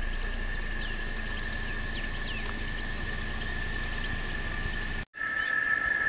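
Outdoor ambience: a steady high-pitched drone over a low rumble, with a few short downward-gliding bird calls about one and two seconds in. The sound cuts out abruptly about five seconds in.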